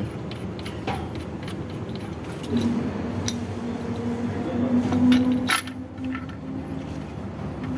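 Metal engine parts and hand tools clinking and knocking as parts are fitted to an engine block, with a few sharp clinks over a steady low hum.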